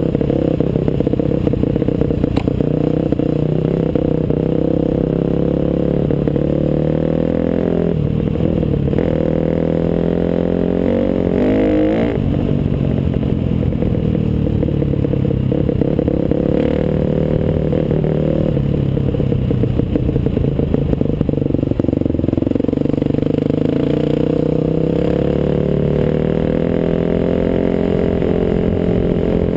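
Off-road motorcycle engine running under way, its pitch rising and falling with the throttle; about eleven seconds in the revs climb sharply, then drop back.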